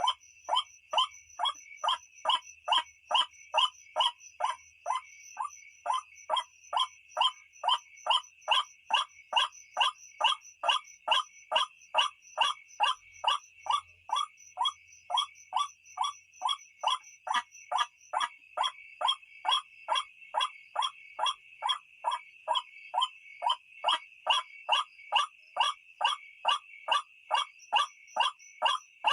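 White-breasted waterhen's harsh, croaking "ruak" call repeated evenly about twice a second: a recorded lure call used to draw waterhens in at night. A steady high-pitched drone runs underneath.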